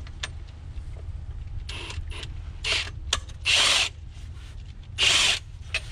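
Impact wrench driving the nuts of a repair clamp on a leaking water main in several short bursts, the two loudest about three and a half and five seconds in. A steady low engine hum runs underneath.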